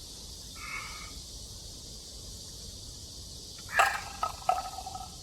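Drinking sounds from a person gulping a small bottled yogurt drink, over a steady hiss. About four seconds in comes a sharp click, followed by short tonal sounds.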